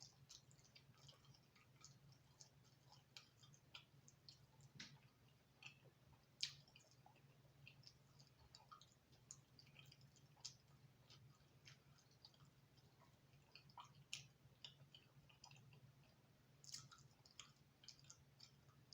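Faint close-up chewing of thin crispy-crust pizza: many small wet mouth clicks and crackles at irregular moments, the sharpest about six and a half seconds in, over a low steady hum.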